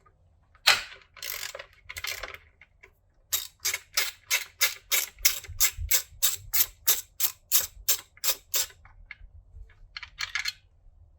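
Ratchet wrench with a 12 mm socket working loose the bolts that hold down the top-mount intercooler. A few longer ratcheting rasps come first, then about three seconds in a steady run of clicking strokes, about three a second, that stops about two seconds before the end, with one more short rasp after it.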